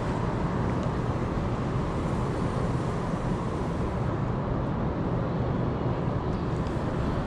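Steady city street noise: a continuous rumble of road traffic with no distinct events.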